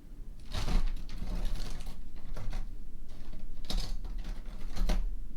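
Metal brooches and pins clicking and clinking against each other while being handled and sorted, with rustling in between. The loudest clicks come about half a second in and twice near the end.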